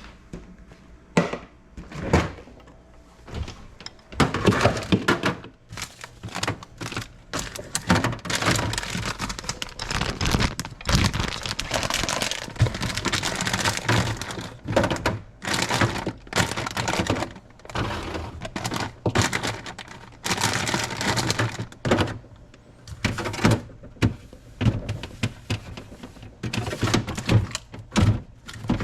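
Irregular knocks, thunks and clatter of hard objects being handled and set down, dense through the middle and sparser near the start and end.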